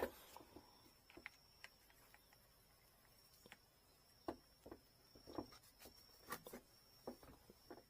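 Near silence broken by scattered faint clicks and light taps, about a dozen in all, from handling the rod sections, with a faint steady high-pitched whine underneath.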